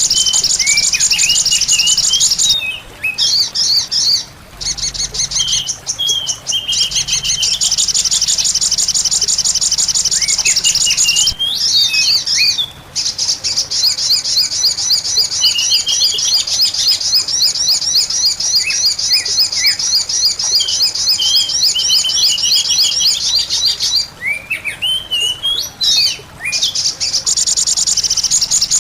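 Small wild birds calling: a fast, continuous run of high-pitched chirps with shorter sliding whistled notes beneath, broken by brief pauses three times. It is a lure-call recording meant to draw small birds in.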